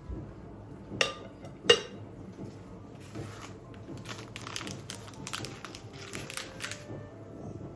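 Kitchen handling sounds: two sharp knocks about a second in, then a run of light crinkling and clicking noises.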